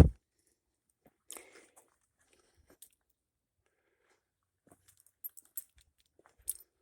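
A short loud thump at the very start, then a few scattered crunching footsteps on the leaf-litter trail, with gaps of quiet between them.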